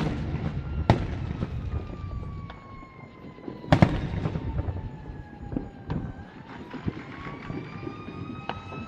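Fireworks going off in sharp bangs, the loudest about four seconds in. Under them a siren wails, its pitch sliding slowly down and then climbing again.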